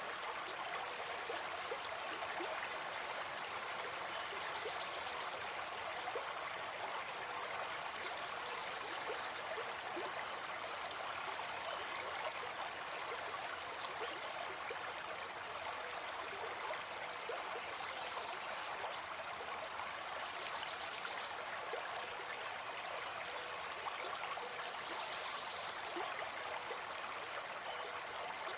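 Gentle forest stream flowing steadily, an even babble of running water.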